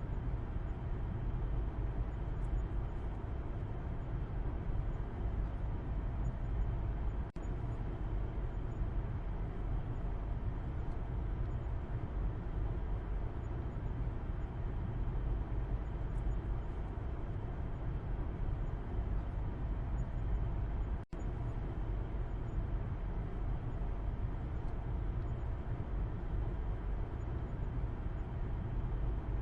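Car cabin road noise heard from the back seat: a steady low rumble of engine and tyres. It drops out for an instant twice, about 7 and 21 seconds in.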